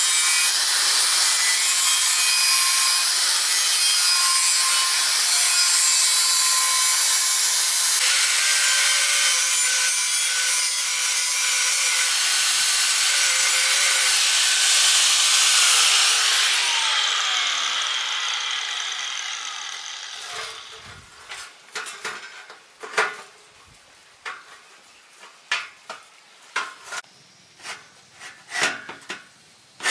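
An angle grinder grinding iron bar: a steady, loud, hissing abrasive noise with a high whine. About half way through the tool is switched off and its whine falls in pitch as the disc spins down. Then come scattered light knocks and clinks of metal being handled.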